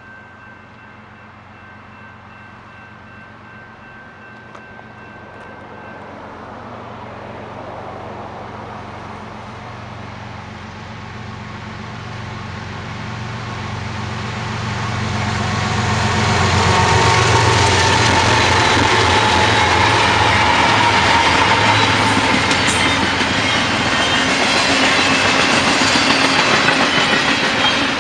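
CSX freight train approaching and passing: the diesel locomotives' engine rumble grows louder through the first half. They pass about halfway through, and then double-stack intermodal container cars roll by with steady wheel and rail noise and some wheel squeal.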